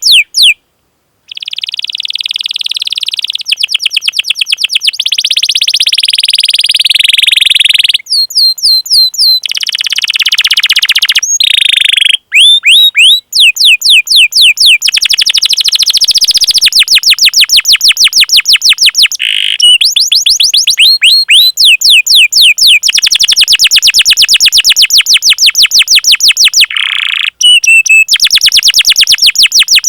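Domestic canary in full song: long rolled trills of rapid, evenly repeated high notes, broken a few times by quick falling 'cuit cuit' call notes, with a short pause about a second in.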